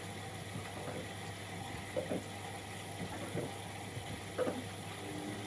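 Bauknecht WA Aquaton 1400 washing machine mid-wash on a 60 °C cottons programme: a steady hum with water sloshing in the drum, and short louder splashes or knocks about two, three and a half and four and a half seconds in.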